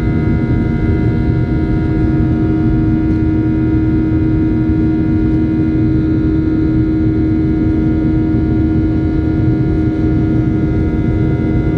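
Steady cabin noise inside a Boeing 737-800 in flight: the even drone of its CFM56-7B turbofan engines and the airflow, with several steady hum tones over it.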